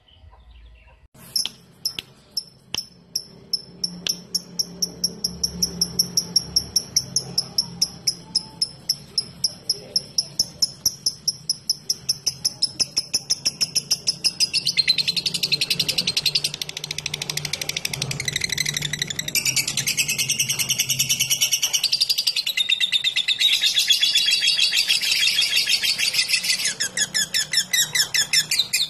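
Lovebird calling: a rapid, regular run of sharp high chirps, about four a second (the 'ngetik' ticking call), that from about halfway through thickens into a dense, continuous chattering trill (the long 'ngekek' song).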